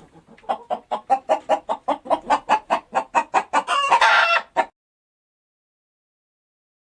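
Domestic hen clucking: a quick run of short clucks, about five a second, ending in one longer, louder call.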